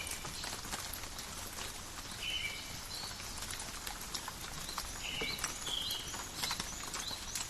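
Rain in a forest: irregular drops tapping and dripping over a steady patter. Short high two-note calls repeat about once a second through it.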